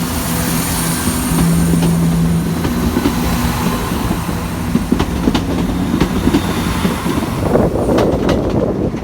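ScotRail Class 170 Turbostar diesel multiple unit pulling out of the station, its diesel engines running under a steady low drone. From about five seconds in, its wheels clack sharply over rail joints and points.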